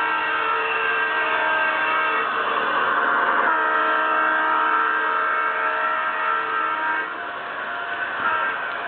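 Garden-scale model locomotive's onboard sound unit sounding its horn: a long, sustained chord of several tones that shifts about three and a half seconds in and again near the end.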